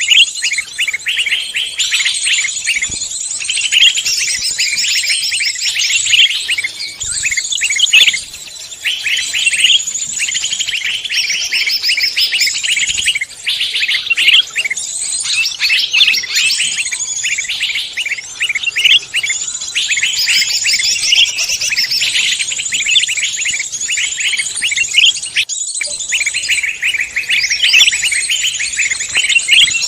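Dense chorus of many songbirds singing at once: rapid, overlapping high chirps, whistles and trills that never let up. A mixed forest-songbird recording of the kind played as a lure call to draw in other birds.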